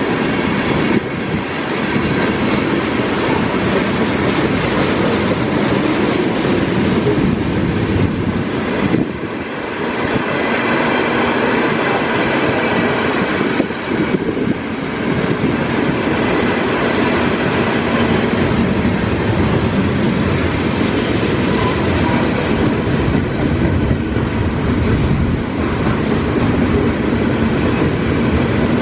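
A train's cars rolling steadily past, the wheels clicking over the rail joints, with wind buffeting the microphone.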